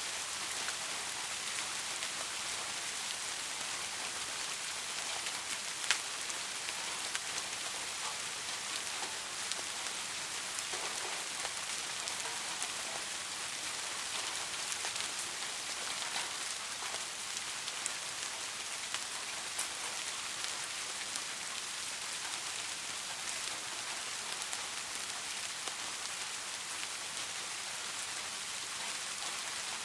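Steady rain falling on hard surfaces, an even hiss with scattered individual drop taps, one sharper tap about six seconds in.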